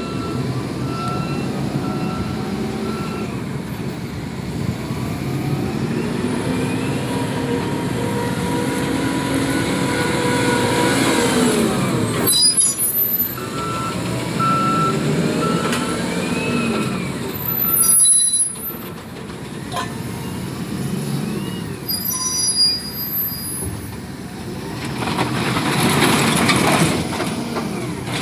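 Diesel engine of a heavy loader working, revving up and down repeatedly while unloading steel bars, with an intermittent reversing beeper sounding early on and again midway. Sharp sudden noises break in about 12 and 18 seconds in.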